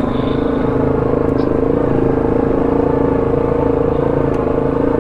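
ATV engine running steadily at low trail speed in four-wheel-drive low range, holding an even pitch.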